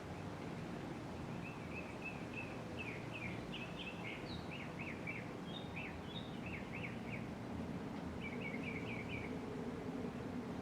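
A steady low hum of air and motor from a running 1983 Casablanca Panama ceiling fan. A small bird chirps over it in quick runs of short, downward-sliding chirps from about a second in until near the end.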